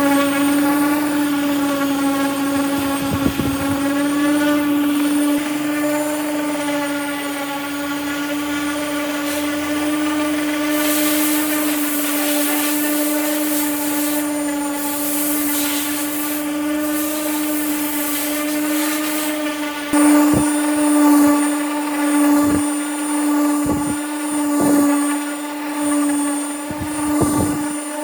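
Electric power tool motor running steadily at a constant high speed. Its steady whine is joined by bursts of hiss partway through and by a few knocks in the last third.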